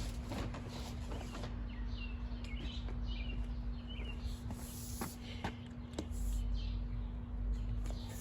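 Birds chirping in short calls during the first half, over scattered light clicks and knocks of handling and a steady low hum.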